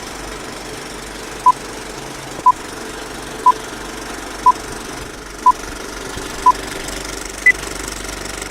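Six short electronic beeps at the same pitch, one a second, then a final beep an octave higher: a countdown signal. A steady droning noise runs underneath.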